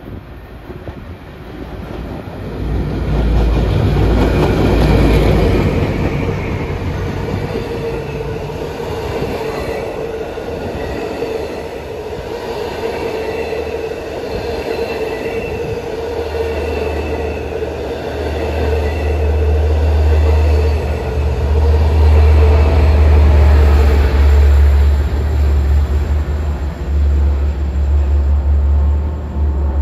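A Long Island Rail Road MP15AC diesel switcher passes with a low rumble, towing an eight-car set of dead bilevel coaches. The coaches roll by with rail clatter and a steady wheel squeal, and a deep drone comes in about halfway as the rear of the set nears.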